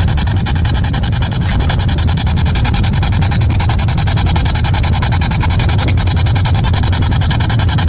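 Spirit box scanning through radio frequencies: a steady hiss of static chopped into rapid, even pulses, listened to for spirit voices. A low car rumble runs beneath it.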